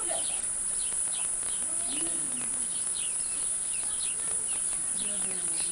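Small birds chirping in short, falling notes, several a second, over a steady high-pitched hiss or insect drone, with faint voices in the background.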